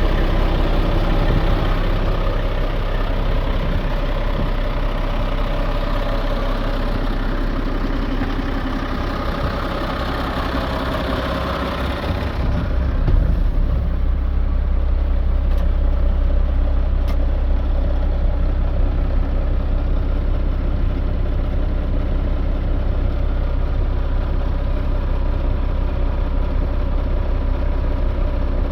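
Diesel engine of an Iveco Eurocargo 100E18 truck running steadily. About twelve seconds in, the higher hissing part of the sound drops away, leaving a steady low idle.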